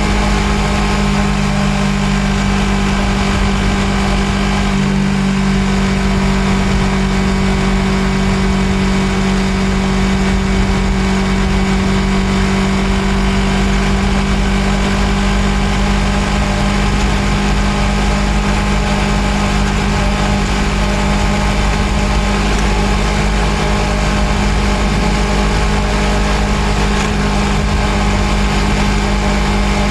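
Suzuki GSX250R's parallel-twin engine running at a steady speed, heard from a microphone mounted on the bike: an even hum that holds one pitch with no revving or gear changes.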